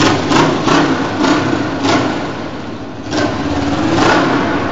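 Kawasaki GPZ500S parallel-twin engine running at low speed, surging in short bursts about seven times, in an echoing underground car park.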